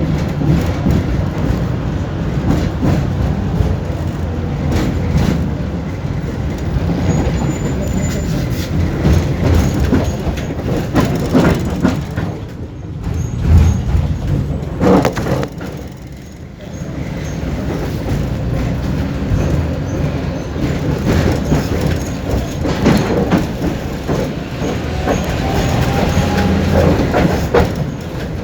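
Tram running, heard from inside the car: a steady low rumble of wheels on rails with frequent clicks and rattles, dropping briefly about halfway through.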